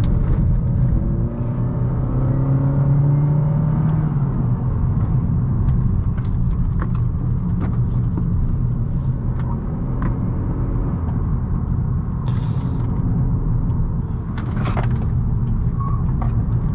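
A 2018 Honda Accord 1.5T's turbocharged four-cylinder engine pulling the car hard through mountain curves, its pitch rising about two to four seconds in, over a steady low road and tyre rumble with a few scattered clicks.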